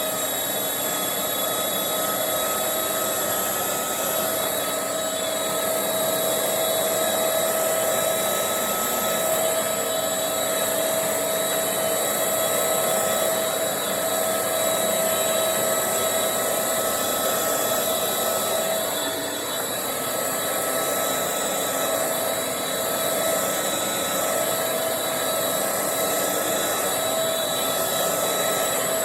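Bissell Featherweight stick vacuum's small 2-amp motor running steadily with a high whine while it is pushed slowly over carpet. Its suction is weak ('kind of anemic'), which the owner puts down to a very dirty filter.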